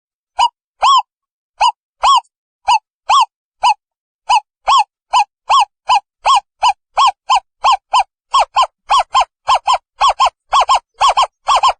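Owl calling: a long series of short hoots, each rising and falling in pitch. The hoots speed up from about two a second to about three a second and grow a little louder.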